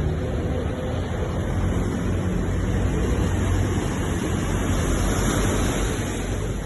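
Sea waves washing on the shore in a steady rush, swelling a little about five seconds in.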